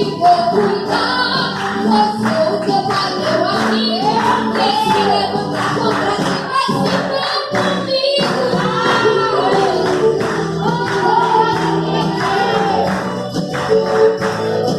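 Gospel praise music: a woman singing a melody over sustained backing instruments, with a tambourine shaking in a steady beat.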